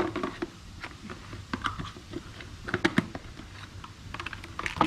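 Hard plastic pressure-washer parts and packaging being handled: an irregular string of short clicks and knocks.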